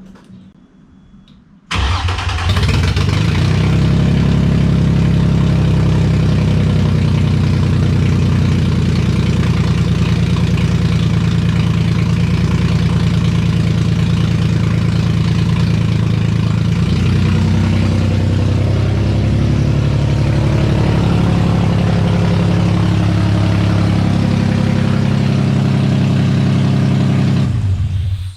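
Nissan VQ35DE V6 on open headers starting about two seconds in and running loud and steady, its vacuum leaks freshly capped, with small changes in engine speed along the way; the sound cuts off suddenly near the end.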